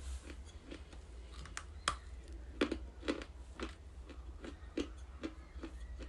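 A person chewing a bar of pressed sea clay close to the microphone: dry, crisp crunches, about two a second.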